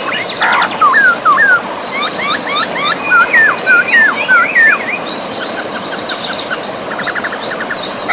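Birds singing over the steady rush of river water. For the first five seconds or so there is a run of repeated hooked, whistled notes; after that come higher twittering and quick trills.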